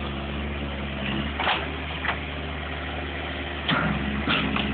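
Bulldozer's diesel engine running steadily while it demolishes a flood-ruined mobile home, with several sharp cracks and bangs of the trailer being broken apart.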